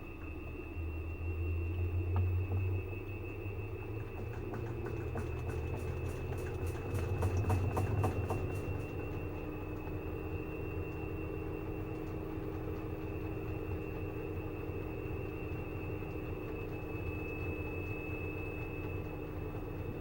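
Washing machine spinning on its spin cycle: a steady low drum hum with a thin high motor whine, swelling louder twice, with a brief run of quick clicks or rattles midway.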